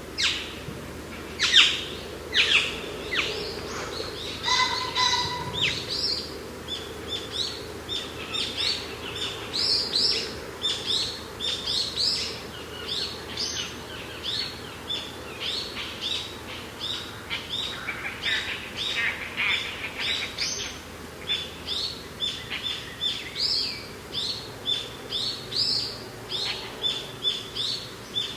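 Birds singing: many short, sharp chirps dropping in pitch, several a second, with a brief steadier whistled call about five seconds in, over a steady low hush of mountain wind.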